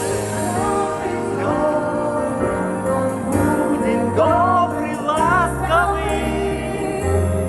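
A song sung over a sustained instrumental accompaniment with a bass line. The singing voice rises and wavers through the middle of the passage.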